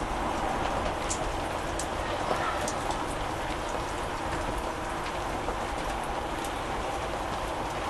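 Steady hiss like rain falling on a surface, with a few faint high ticks in the first few seconds.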